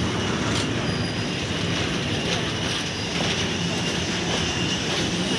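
Goods train running on the rails: a steady rumble of wagons and wheels, with a faint high wheel squeal held throughout and occasional light clicks.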